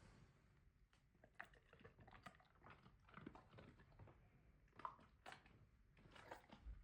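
Bernedoodle chewing crunchy dog treats: faint, irregular crunches and clicks.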